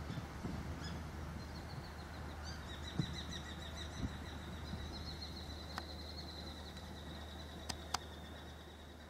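A bird trilling, a long run of rapid high notes starting about two seconds in, over a steady low rumble. A few sharp clicks come near the end as everything fades out.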